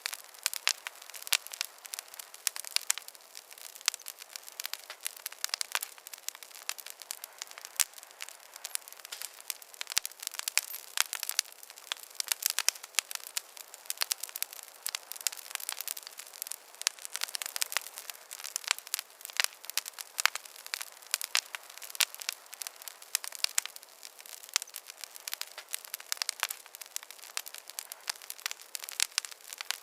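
Wood fire crackling in a fireplace: a steady stream of irregular sharp pops and snaps over a soft hiss, with nothing low-pitched.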